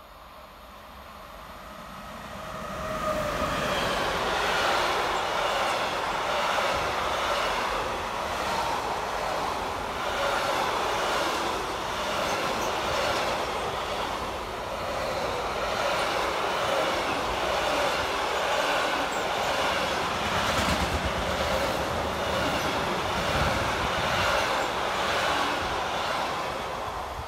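Train passing close by: it builds over the first three seconds, then runs steadily for about twenty seconds with a regular clatter of wheels on the rails, and dies away near the end.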